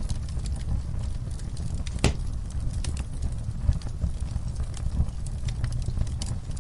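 Wood fire in a fireplace crackling and popping over a steady low rumble of flame, with one sharper pop about two seconds in.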